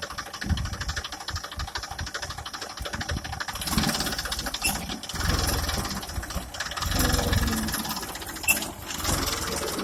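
Tractor engine running with a fast, steady chug, swelling louder a few times, around four, five and seven seconds in.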